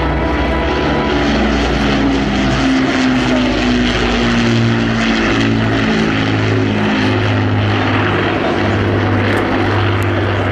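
Avro Lancaster bomber's four Rolls-Royce Merlin V12 piston engines and propellers droning loudly and steadily in flight, with the engine pitches shifting against one another.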